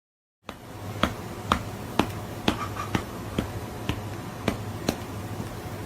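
Sharp clicks or taps, about two a second and slightly uneven, over a steady low hum. They start abruptly about half a second in.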